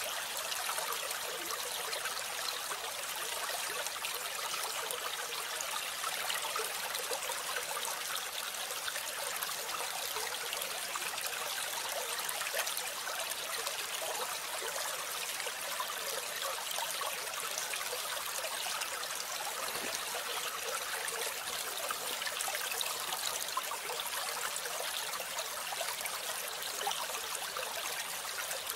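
Steady rush of running water, like a small stream or trickle.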